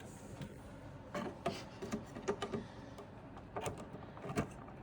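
Scattered faint clicks and light knocks of a Corsair Vengeance RAM stick being handled against a motherboard's DIMM slot and its plastic retaining clamps as it is lined up to go in.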